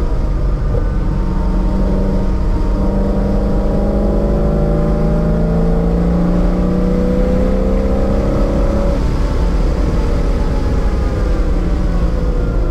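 1999 Corvette C5's LS1 V8, breathing through long-tube headers and a catless X-pipe, heard from inside the cabin while lapping a track. The engine pulls with a slowly rising pitch for several seconds as the car gains speed, then the note drops away about nine seconds in as the car eases off.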